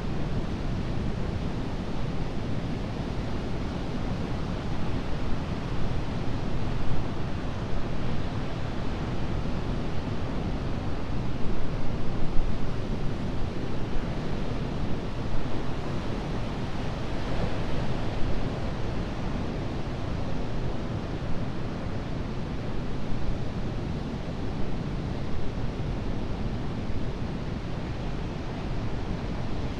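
Ocean surf on a beach: a steady rush of breaking waves, swelling a little now and then, with some wind buffeting the microphone.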